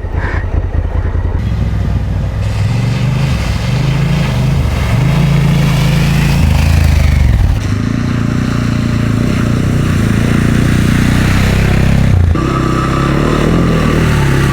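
Motorcycle engine running under way on a dirt road, heard from the bike, over wind and road noise. The engine note shifts twice, about halfway through and again near the end, as the throttle or gear changes.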